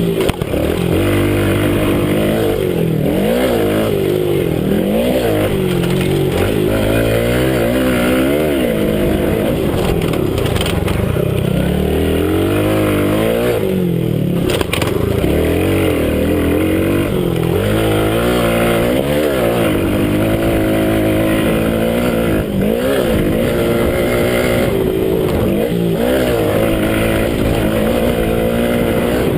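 Minibike motocross engine heard from on board, revving up and dropping back again and again as the bike accelerates and brakes around the track.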